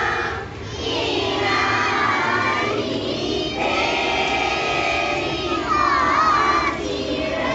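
Many children's voices chanting loudly together, in phrases of about three seconds with short breaks between them.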